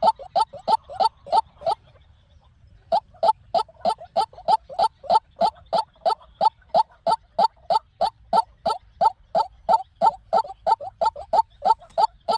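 White-breasted waterhen calling: a fast, even series of short, hollow 'kook' notes, about four a second. The series breaks off for about a second near the start, then picks up again at the same pace.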